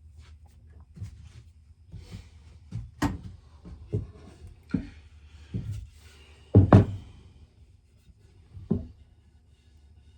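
A run of separate knocks and thumps at uneven spacing, about nine in all. The loudest, heavy thump comes about two-thirds of the way through, and a softer one follows near the end.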